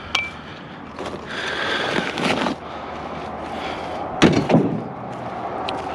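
Scrap being handled: rattling and scraping, with a short clink at the start and a cluster of loud knocks about four seconds in.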